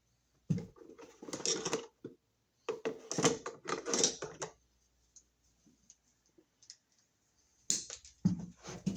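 Three bursts of rapid clicking and scraping from hand tools working on the wires at a wall receptacle.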